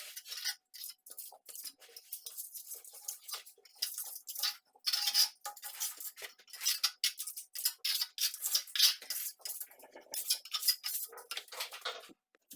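Steel plastering trowel or spatula scraping and clinking as decorative plaster is worked: a quick, irregular run of short metallic scrapes and taps.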